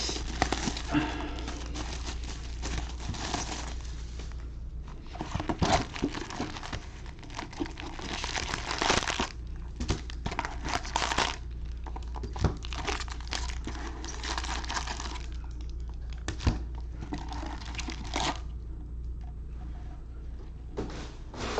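Plastic packaging crinkling and tearing as a sealed hobby box of trading cards is unwrapped and opened: irregular bursts of rustling with a few sharp clicks.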